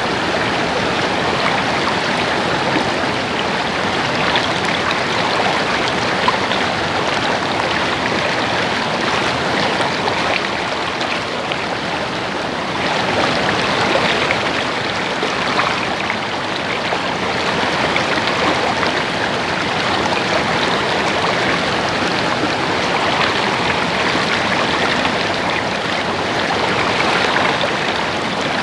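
Stream water babbling and splashing over rocks, a steady rush with small swells in loudness.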